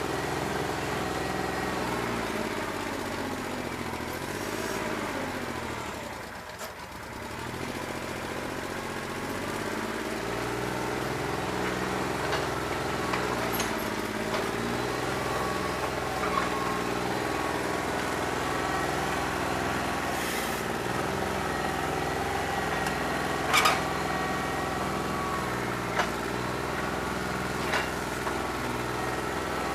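New Holland 1320 compact tractor's three-cylinder diesel running unevenly on a bad injector, not firing properly on all cylinders. The engine speed swings up and down and sags briefly a few seconds in. A few short sharp clanks come near the end.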